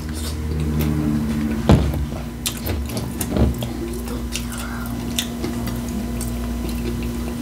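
A person eating close to the microphone: scattered short crunchy clicks and chewing sounds over a steady low hum.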